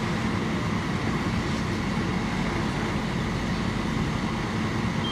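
Fire apparatus engines running steadily, a continuous low drone with a constant hum under an even rushing noise.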